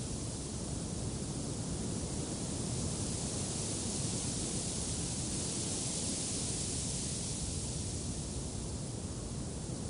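Wind blowing, a steady rushing hiss that swells in the middle and then eases off.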